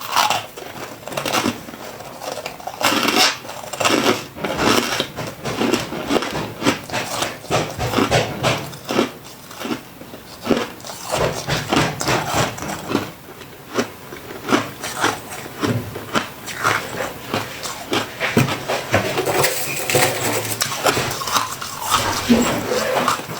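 Freezer frost being chewed: a quick, irregular run of soft crunches.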